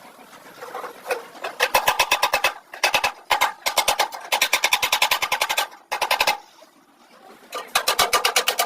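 Rapid mechanical tapping, about nine sharp strikes a second, in several runs broken by short pauses.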